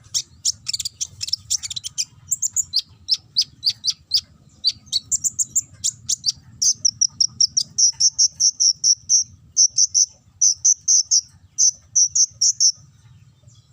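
A konin (kolibri ninja, a sunbird kept as a songbird) singing a rapid, high, canary-like song. It begins with fast trills and varied notes, settles into a quick run of repeated chirps, and stops shortly before the end.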